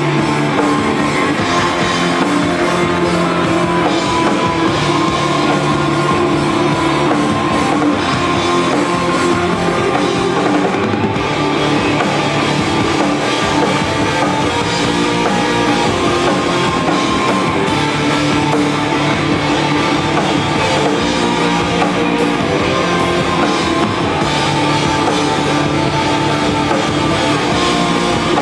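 Rock band playing live, with drum kit and guitar, loud and unbroken.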